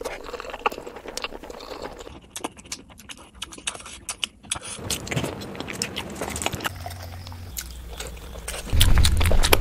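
Close-miked eating of boiled eggs: wet chewing, biting and lip-smacking with many short sticky clicks. Near the end a louder low rumble comes in under the mouth sounds.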